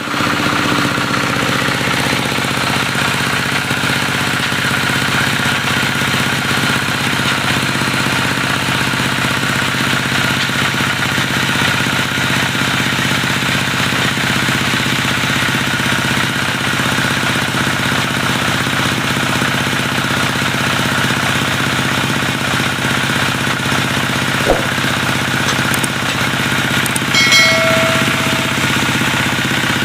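Diesel engine of a wood-sawing rig running steadily. A brief high squeal and a couple of clicks come near the end.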